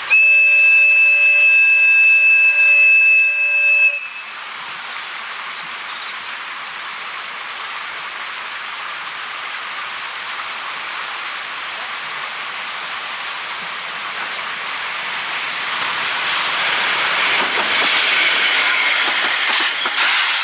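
A train horn sounds one steady note for about four seconds. The horn is followed by the running noise of a train, which builds steadily and is loudest just before the end as it passes.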